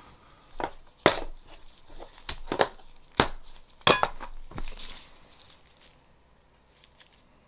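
Hard objects being handled and set down on a table, among them the parts of a field-stripped Glock pistol: about eight sharp knocks and clicks over some four seconds. One, about four seconds in, is a metallic clink that rings briefly.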